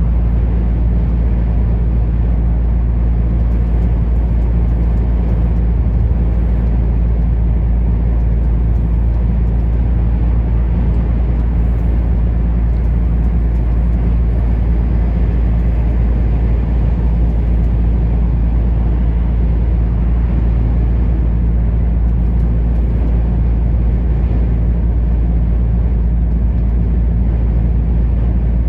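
A truck's diesel engine and tyre noise at a steady cruise: an even low drone with a constant engine hum, unchanging throughout.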